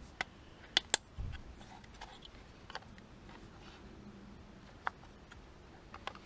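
Plastic trim clips on a car door cover snapping as they are pried loose: two sharp snaps just before a second in, a dull knock right after, then a few lighter clicks.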